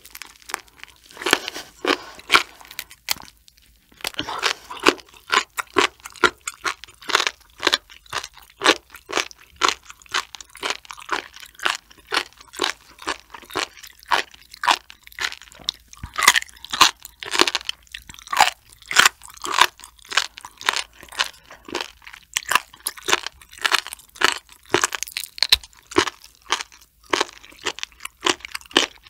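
Close-miked chewing of raw sturgeon spine, the rubbery cartilaginous cord (notochord) of the fish: a steady run of crisp crunches and wet clicks several times a second, with a short pause a few seconds in.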